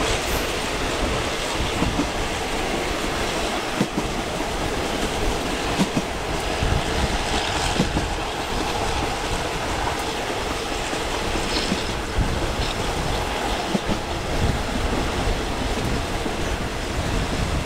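Diesel-hauled express passenger train running along the track: a steady rumble with irregular clicks of the wheels over rail joints.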